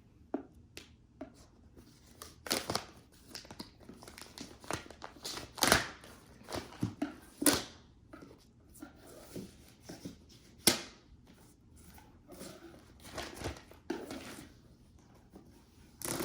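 Plastic packaging crinkling and tearing as it is pulled off a new stick vacuum, in irregular rustles and sharp crackles with short pauses; the loudest snaps come about six and eleven seconds in.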